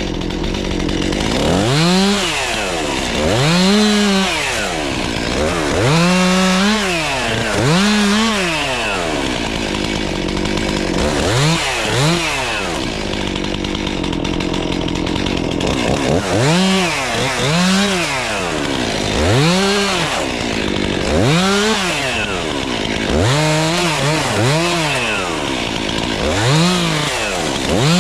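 Chainsaw revving up and dropping back over and over, about one rev every two seconds, with steady idling between runs: bucking cut limbs into short pieces.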